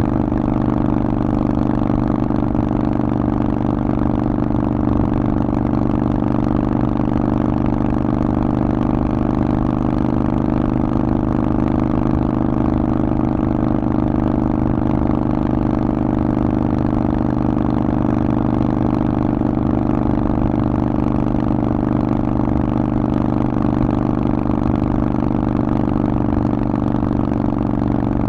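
Harley-Davidson Forty-Eight's 1200 cc air-cooled V-twin running through a Vance & Hines exhaust, holding a steady, unchanging engine speed.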